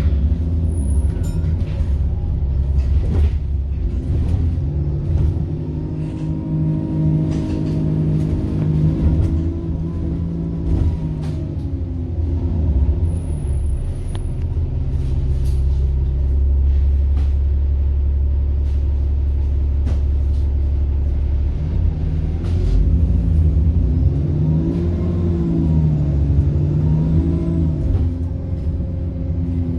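Bus diesel engine pulling and easing off twice, its pitch rising and falling, with a higher turbo whine following the revs. In the middle it settles to a steady low drone. Scattered short clicks and knocks run through it.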